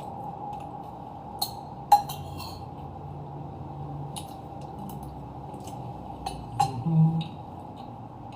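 Cutlery clinking against a plate or bowl now and then during a meal, a few sharp taps, the loudest about two seconds in and again near the end, over a faint steady hum.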